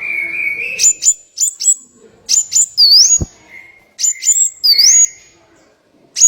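Small songbird singing: runs of sharp, very brief high chirps, twice capped by a short whistle that dips and rises again.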